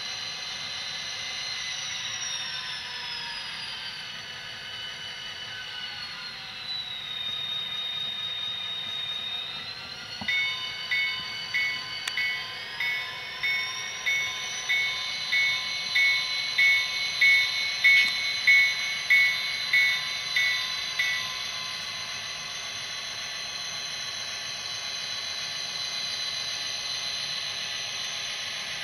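Model diesel locomotive's Tsunami sound decoder playing EMD 645 prime mover sound through its small speaker. The engine sound falls in pitch over the first several seconds, holds, then rises again about ten seconds in. A bell rings for about ten seconds, about two strikes a second.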